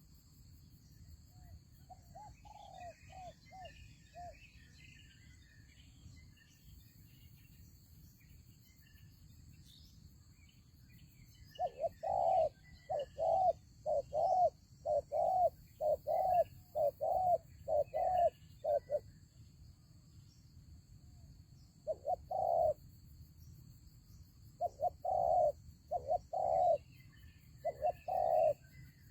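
Spotted doves cooing: a few soft coos early on, then a loud run of about eight coos in quick succession starting about twelve seconds in, and more bunches of coos near the end. Faint chirping of small birds is behind them.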